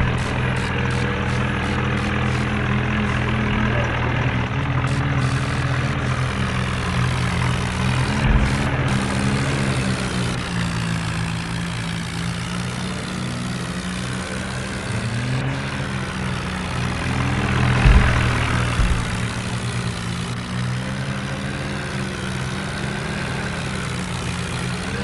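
Tractor diesel engine running steadily, its pitch drifting slightly up and down, with a thump about eight seconds in and a louder one near eighteen seconds.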